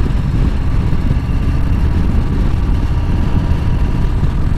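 Harley-Davidson V-twin motorcycle running steadily while being ridden, with a loud, even low rumble of engine and road noise.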